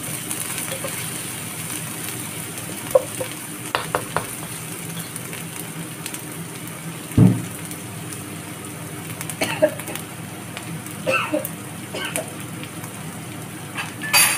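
Minced garlic and chillies frying in a wok with a steady sizzle, while a wooden spatula scrapes and taps against the pan every second or two. There is one louder knock a little past halfway.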